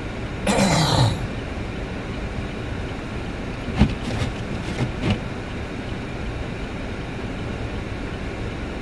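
Steady road rumble of a car driving on a snowy road, heard from inside. About half a second in there is a brief loud rush with a falling tone, and a few sharp knocks come around four to five seconds in.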